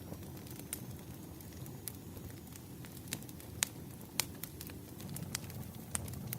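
Firewood burning in a campfire: a steady low rumble of flames with irregular sharp crackles and pops, the loudest two a little past the middle.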